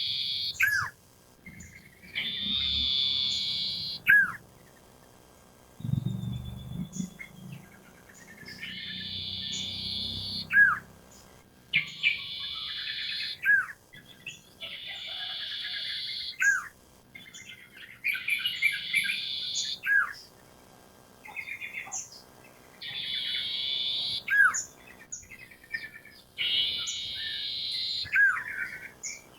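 Sirtu (iora) song: a loud, buzzy chattering phrase about a second long, repeated every two to three seconds, each followed by a short, sharp hooked whistle.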